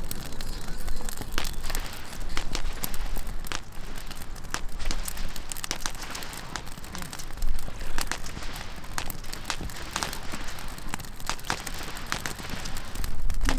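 Campfire crackling, with irregular sharp pops and snaps of burning wood.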